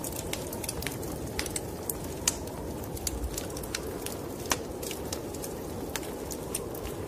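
Wood fire crackling in a fireplace, with irregular sharp pops, a couple of them louder, over a steady low rumble.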